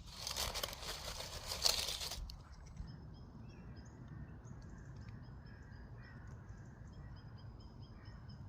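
Close rustling and crackling handling noise that stops abruptly about two seconds in. It gives way to quiet outdoor ambience with many faint, short, high chirps repeating.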